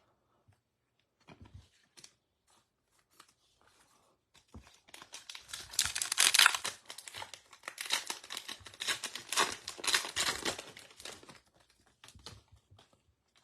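A trading card pack wrapper being torn open and crinkled by hand. There are faint handling clicks at first, then loud crackling tearing and crinkling from about five seconds in until near the end.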